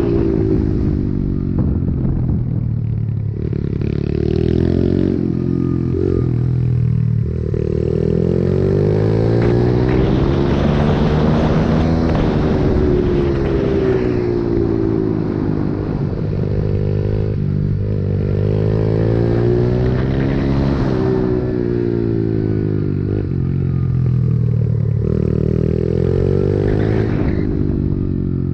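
A pit bike's small single-cylinder engine being ridden hard, revving up and dropping off again and again, its pitch climbing and falling every few seconds with a few sudden drops.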